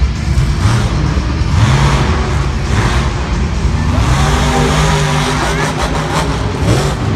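A monster truck's engine revving hard in bursts, its pitch rising and falling several times.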